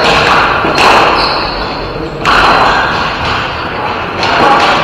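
Ball hockey play: three sharp knocks and thuds of sticks, ball and players against the rink boards, each trailing off in a short echo, over steady game noise.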